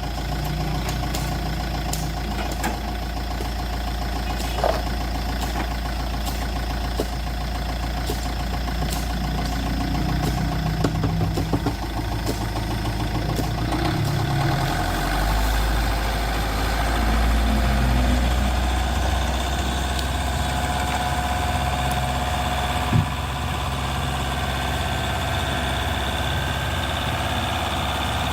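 An engine running steadily, with its note shifting about halfway through, and a couple of sharp knocks.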